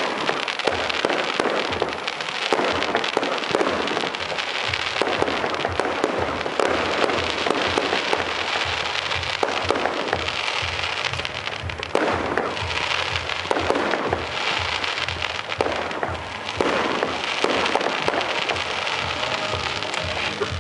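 Aerial fireworks display: a dense, unbroken run of bangs, pops and crackling from bursting shells.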